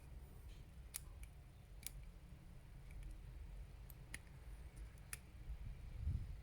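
Faint scattered clicks of small plastic toy parts being handled, with four sharp clicks a second or two apart.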